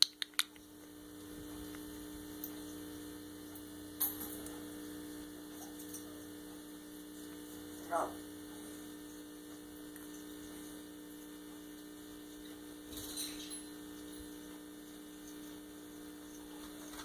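Steady electrical hum with a low tone, and a few faint clicks near the start and about four seconds in, plus a brief pitched sound about eight seconds in.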